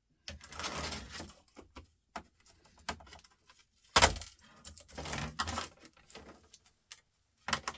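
Laptop parts being handled and pulled apart by hand: irregular scraping and rustling with scattered clicks, and one sharp clack about four seconds in.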